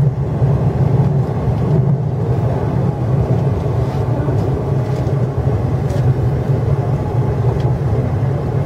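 Steady running noise inside a moving MTR East Rail Line R-train electric multiple unit: a continuous low rumble from the wheels and running gear on the track.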